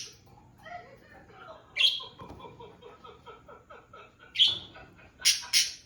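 Pet parrots calling: a loud call about two seconds in, then a run of short quick chattering notes at about four a second, another loud call, and two loud calls in quick succession near the end.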